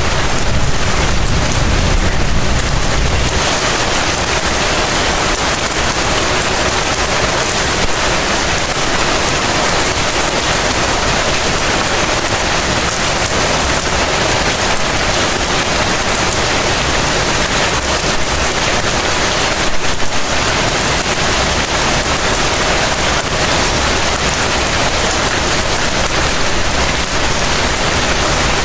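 Heavy rain falling steadily as a dense, even hiss. A low rumble sits under it for the first few seconds and then fades, and there is a brief louder surge about twenty seconds in.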